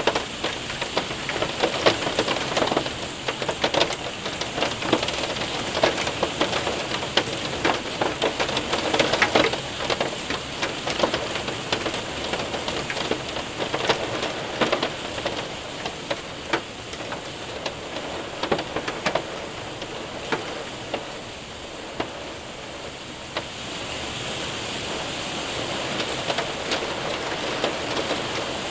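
Hailstones and heavy rain hitting a window and roof: dense sharp ticks and taps over a steady rain hiss. The hail impacts thin out after the middle, leaving mostly the hiss of rain.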